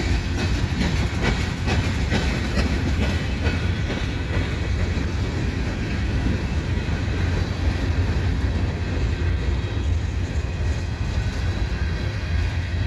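Freight train rolling past, a steady heavy rumble of cars with repeated clicks of wheels over the rail joints, the clicking busiest in the first few seconds.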